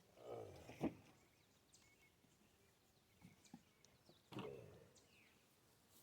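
Near-silent outdoor ambience with a few faint bird chirps, broken by two brief swells of sound that bend in pitch, one at the start and one about four seconds in, and a single click just under a second in.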